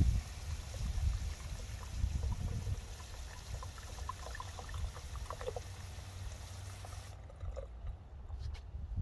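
Water running steadily from a shower fed by a tankless water heater, a hiss that cuts off abruptly about seven seconds in, followed by a few faint clicks and drips.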